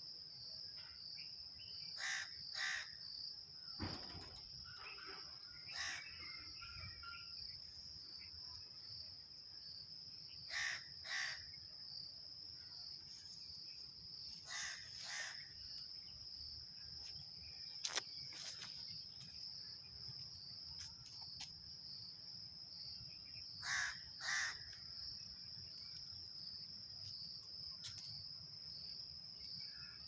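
A bird gives short calls in quick pairs, four times, over a steady high-pitched insect drone. A single sharp tick about two-thirds of the way through.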